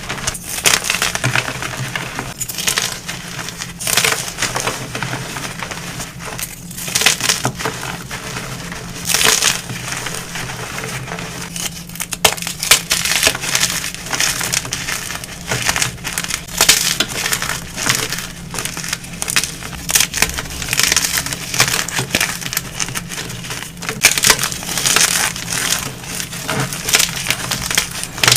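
Blocks of gym chalk being crushed and crumbled by hand: an irregular run of crisp, dry crunches, some much louder than others.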